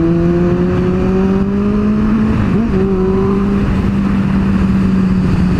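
Kawasaki Z750 inline-four engine and exhaust running under way, its note climbing slowly for about two seconds, breaking briefly about halfway, then holding steady.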